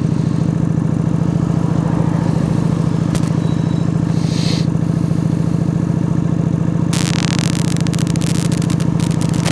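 A Yamaha YBR125's single-cylinder four-stroke engine running at a steady speed under way. A loud rushing hiss joins it about seven seconds in.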